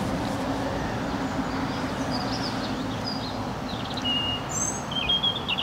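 Small birds chirping and twittering, the calls starting about two seconds in and growing stronger near the end, over a steady low hum.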